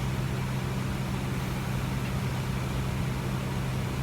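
Steady hum and hiss of a parked airliner's cabin, its air supply running, with a low drone.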